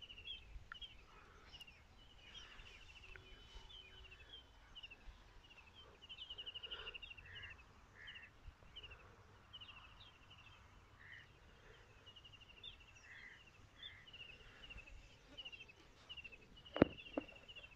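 Birds chirping and trilling, faint and ongoing: many short high calls and quick rapid trills repeating on and off. Near the end two sharp knocks come close together, the first the loudest sound.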